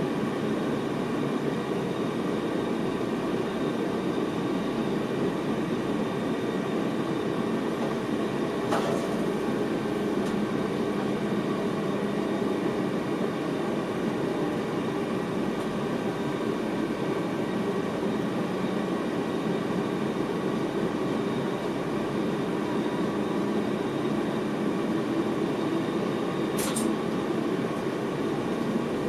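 Inside the cab of an NS VIRM double-deck electric train running along the line, with the steady rumble of wheels on rail and a few faint steady tones above it. Two brief sharp clicks come about nine seconds in and near the end.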